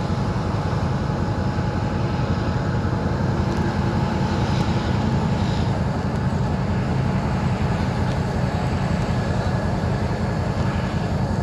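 Abu Qir commuter train running, a steady low rumble with a faint steady whine above it.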